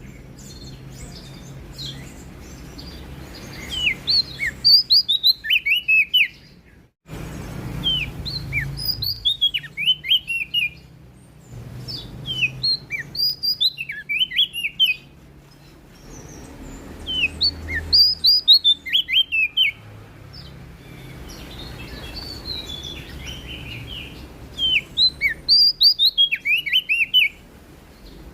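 A prenjak daun (cikrak daun) songbird singing: about five bursts of rapid, high chirping notes, each two to three seconds long, with pauses between them.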